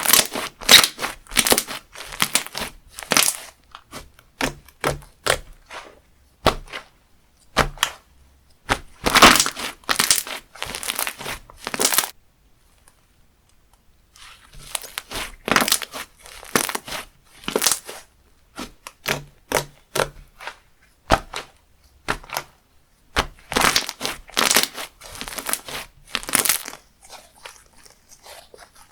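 Textured slime squeezed and pressed by hand, giving dense runs of crunchy crackles and pops in bursts, with a pause of about two seconds midway.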